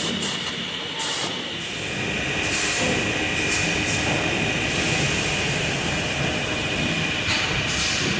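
Steady factory machinery noise: a continuous mechanical rumble and hiss with a constant high-pitched whine on top.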